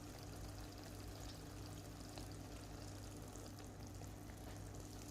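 Faint, steady sizzle of chicken karahi simmering in the pan, under a low steady hum.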